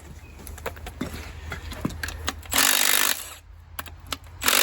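Two short bursts of an impact wrench, about two seconds apart, loosening connecting-rod cap bolts on a Case 188D diesel engine, with light clicks of tools and parts in between.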